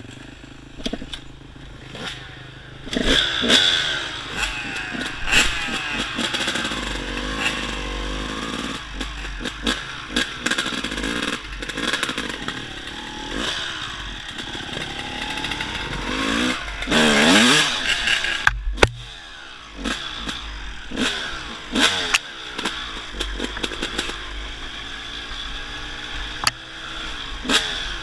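Dirt bike engine running while being ridden, revving up and down repeatedly, with a big rev at about two-thirds of the way through. Clattering knocks throughout.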